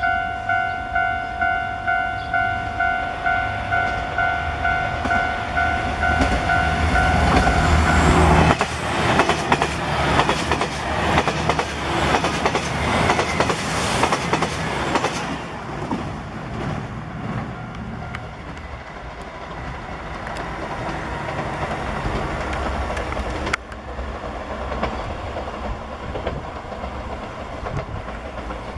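Level-crossing warning bell ringing about twice a second. About 8 seconds in, the Anpanman-painted train passes the crossing, its wheels clattering over the rail joints. The train noise fades after about 15 seconds into quieter rail and background sound.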